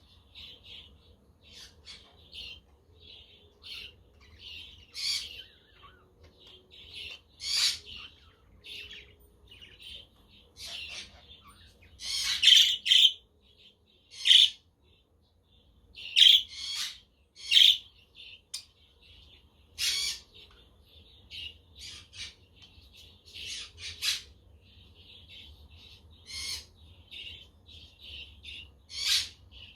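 Budgerigars chirping and chattering in a constant run of short, quick calls, with frequent louder harsh squawks breaking in every second or two.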